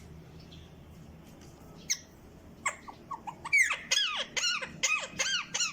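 Grey parrot giving a rapid string of short, high squeaky calls, each one arching up and down in pitch, about three a second, starting a little past halfway. A couple of sharp clicks come just before.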